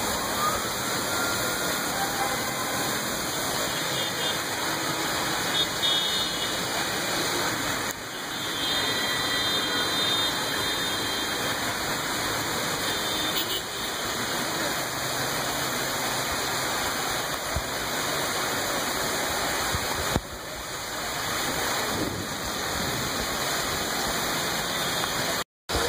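Heavy rain pouring down steadily, an even rushing hiss, with faint street traffic underneath.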